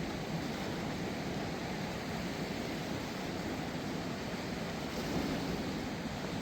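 Floodwater of a swollen river rushing steadily, an even roar with no break.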